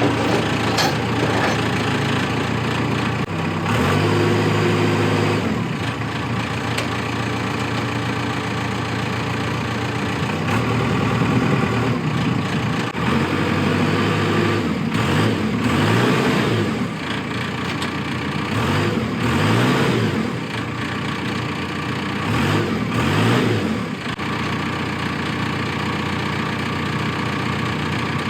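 SkyTrak telehandler's diesel engine running, its pitch rising and falling several times as it is revved up and back down.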